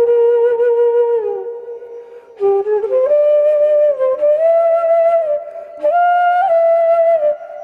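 Solo flute playing a slow melody of long held notes that slide from one pitch to the next, with a brief break about two seconds in.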